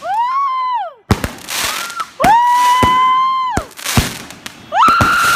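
Whistling fireworks going off one after another: three shrill whistles, each rising, holding and then falling away over about a second, with sharp bangs between them.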